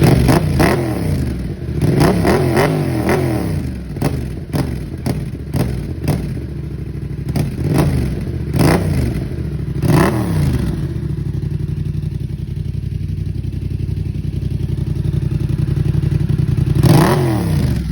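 Yamaha MT-07's parallel-twin engine running through a cheap aftermarket exhaust with the baffle in, idling and being revved. There are quick throttle blips in the first few seconds, two more around the middle and one near the end, settling back to a steady idle between them.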